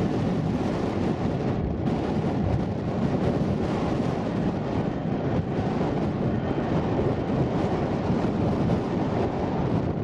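Steady roar of a Boeing 727-200's three Pratt & Whitney JT8D jet engines on a landing, mixed with strong wind buffeting the microphone.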